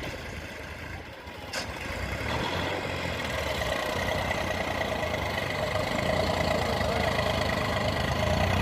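Tractor engine running steadily and growing gradually louder from about two seconds in. A single sharp click comes shortly before it swells.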